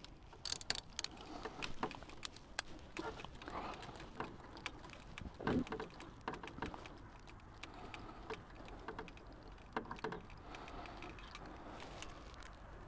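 Scattered light clicks, taps and knocks of hand tools on a motorcycle engine as the spark plug is removed to check whether it is wet with fuel, with a firmer knock about halfway through.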